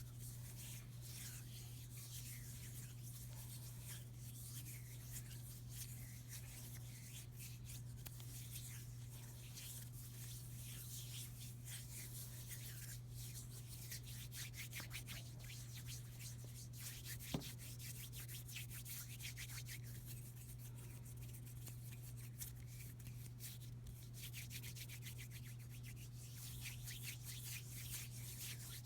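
Hands rubbing and brushing against each other close to the microphone, a continuous soft scratchy swishing, over a steady low electrical hum. A single sharp click about halfway through.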